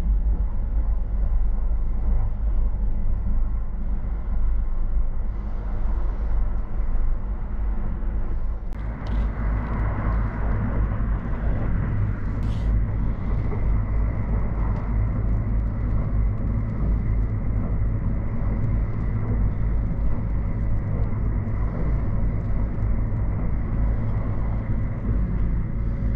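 Kintetsu Shimakaze electric limited express running, heard from inside a passenger compartment: a steady low rumble of the moving train. About nine seconds in the sound gets brighter and fuller, with a faint steady high tone above it.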